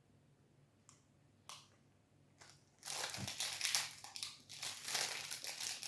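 Plastic protein-bar wrapper crinkling and crackling, starting about three seconds in after a few soft clicks.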